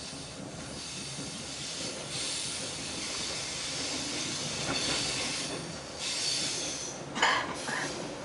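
Passenger train running on the rails, a steady rush and hiss of wheels and track that swells and fades. About seven seconds in comes a brief, louder, sharper sound in two short bursts.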